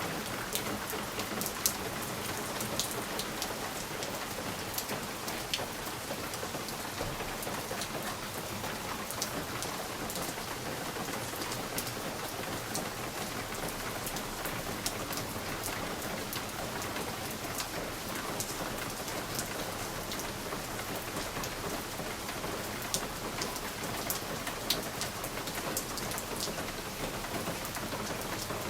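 Steady rain on a window: an even rushing hiss with many separate sharp drop ticks scattered through it.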